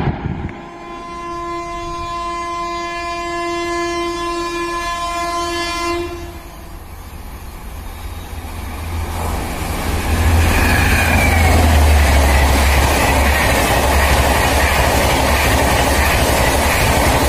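A train horn sounds one long blast of a single pitch for about five seconds. From about ten seconds in, an express train of LHB coaches passes at speed (around 130 km/h), a loud, steady rumble of wheels on the rails.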